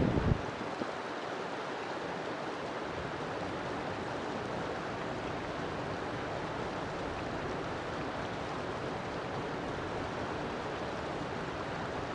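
River water flowing and rushing steadily. A brief low thump sounds right at the start.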